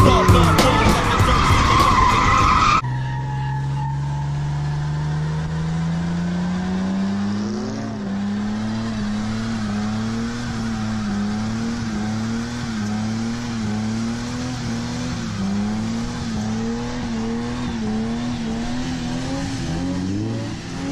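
Loud music cuts off about three seconds in. A car engine is then held at high revs while the tyres squeal and skid, as in donuts or a drift. The engine pitch climbs for a few seconds, then wavers up and down about once a second.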